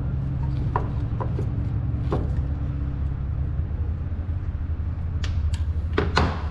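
Several light clicks and knocks of metal parts and hand tools being handled during engine reassembly, the loudest two near the end. A steady low hum runs underneath.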